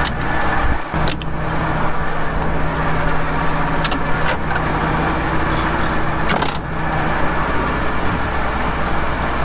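Combine harvester engine running steadily, with a few brief clicks.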